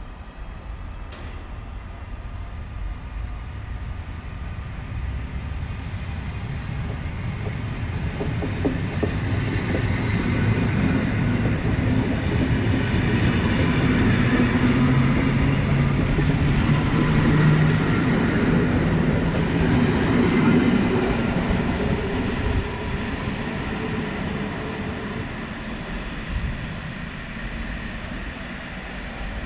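A train passing, its rumble growing louder to a peak around the middle and then fading as it moves away.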